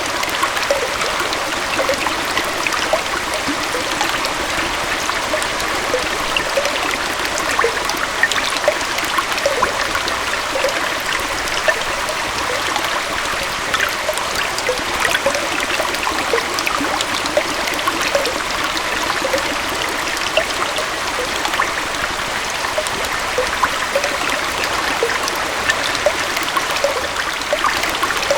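Gentle waterfall and stream flowing steadily, a constant rush of water with many small bubbling, trickling splashes through it.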